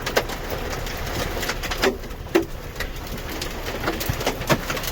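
Large hailstones striking a car's body and glass in a hailstorm: irregular sharp thuds and cracks, roughly one a second, over a steady hiss of falling hail.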